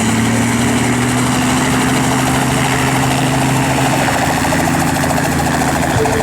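Helicopter running: a steady, loud engine and rotor drone with a low hum that rises slightly in pitch over the first few seconds.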